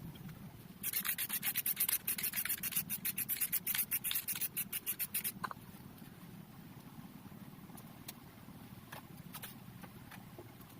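Quick back-and-forth rubbing strokes on a surface, several a second, for about four and a half seconds, stopping a little past the middle; a few faint clicks follow.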